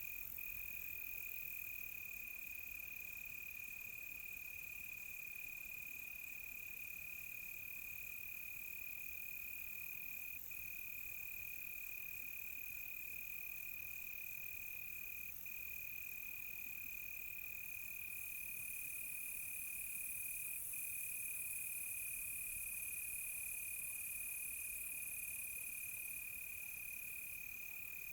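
Crickets trilling at night: one steady high-pitched trill runs on with only a few brief breaks, over a fainter, higher insect buzz that swells into a brighter hiss for several seconds after the middle.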